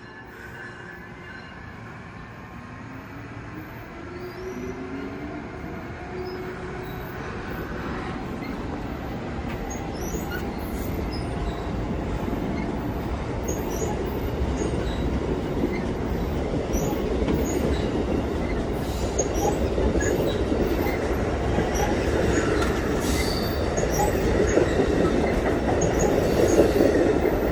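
Amtrak Northeast Regional train hauled by a Siemens ACS-64 electric locomotive pulling out and gathering speed, its motor whine rising in pitch in the first few seconds. The rumble of the wheels and passing cars grows steadily louder, with short wheel squeals and clicks over the rail joints.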